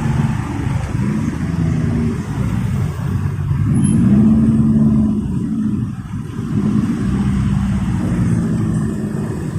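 Motorcycle engine running in traffic, its note rising and falling as the rider speeds up and eases off, over a steady rumble of road noise. It is loudest about four to five seconds in.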